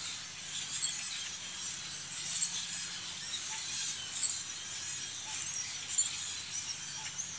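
A dense chorus of many marsh birds calling and singing at once, a continuous mass of overlapping high chirps and calls with a few louder notes standing out.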